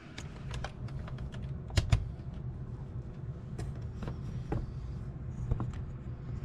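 Scattered small plastic clicks and knocks from handling a Sony WA-55 cassette recorder, with two sharper clicks about two seconds in, over a steady low electrical buzz.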